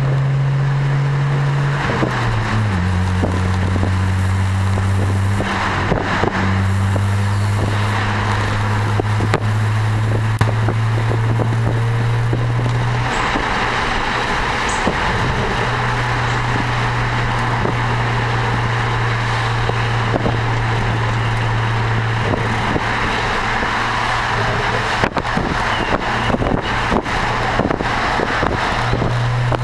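BMW 335i turbocharged inline-six with an Eisenmann Race aftermarket exhaust, cruising: a steady low exhaust drone that drops in pitch about two seconds in and rises again near the end, with road and wind noise growing louder past the halfway point.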